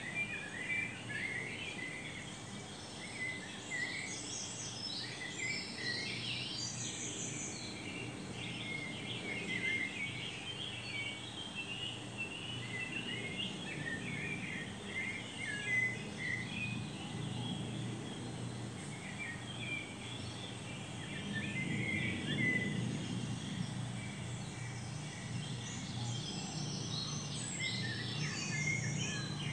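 Small birds chirping and twittering in many short, rapid calls over a steady low background rumble.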